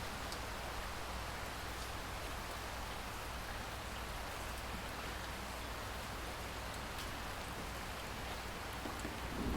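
Steady rain falling, an even hiss with faint drop ticks; near the end a low rumble of thunder begins to build.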